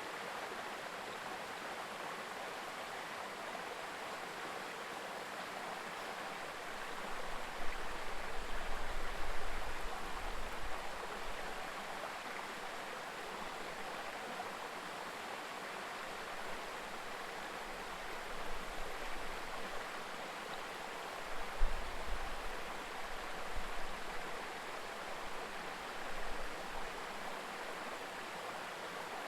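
Mountain river babbling steadily. Two stretches of low rumble come through it, one about a quarter of the way in and another past two-thirds of the way.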